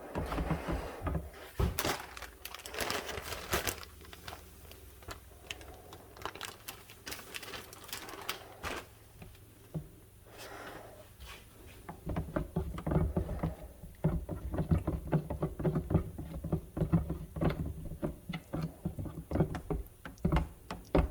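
Irregular knocks, clicks and short rustling scrapes of objects being handled, getting busier and more rapid about halfway through.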